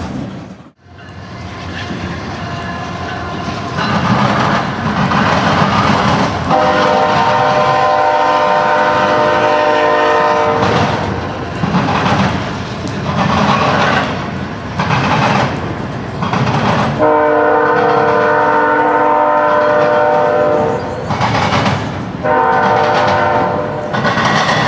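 Diesel freight locomotive's multi-chime air horn blowing several long blasts over the rumble and rail clatter of a moving train.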